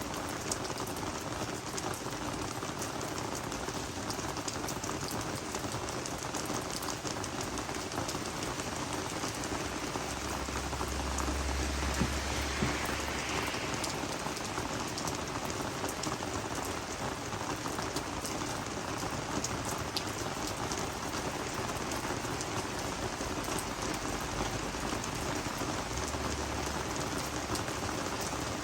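Steady rain falling on garden vegetables and flowers, with single drops ticking through the hiss. A low rumble comes in about ten seconds in and lasts a few seconds, with a shorter one near the end.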